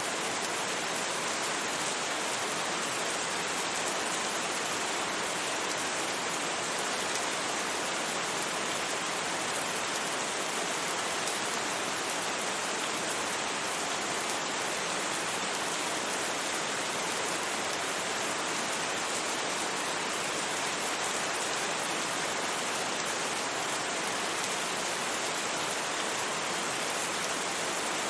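Steady rain falling, an even unbroken hiss of rain with no thunder.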